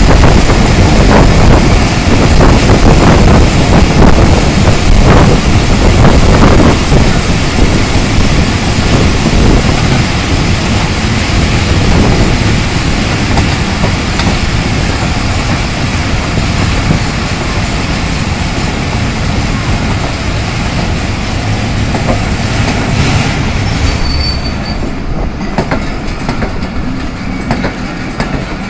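Passenger coaches of a train running by on the adjacent track, heard from an open coach window of another train: a loud rumble with wheels clacking over rail joints. The noise gets gradually quieter over the last several seconds.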